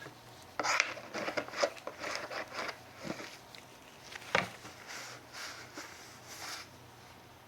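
Handling noises as hands move and wipe around a plastic bin: irregular rustling, scraping and clicks, with one sharp knock about four and a half seconds in.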